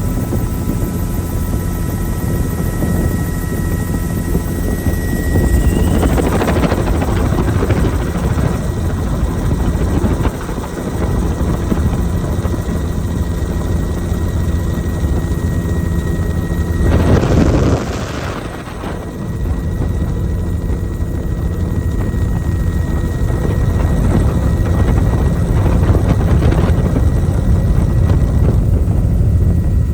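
Helicopter in flight: steady rotor and engine rumble, with a thin high whine that stops about six seconds in. A louder rush of air comes through about seventeen seconds in.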